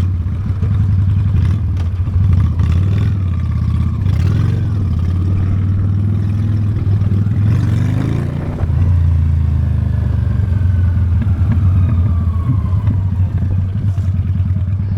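Honda Steed V-twin motorcycle engine running steadily at low speed, its level dipping briefly about eight seconds in before picking up again.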